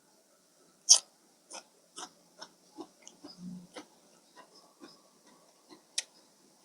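Close-miked eating sounds: a person chewing soft rice noodles and fish balls, with irregular wet lip smacks and mouth clicks, the loudest smack about a second in and another near the end.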